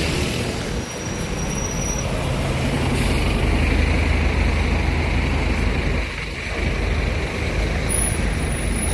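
Scania K250UB city bus's diesel engine running as the bus draws up, a low steady engine hum that grows louder over the first few seconds, with road traffic noise around it.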